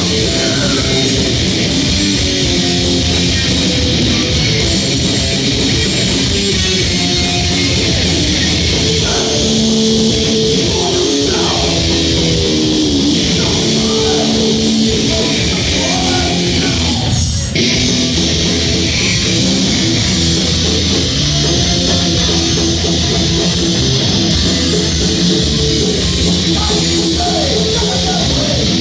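Live crossover thrash band playing loud and fast: distorted electric guitars, bass and drums. A guitar line with bending notes runs through the middle, and there is a split-second break in the music about two-thirds of the way through.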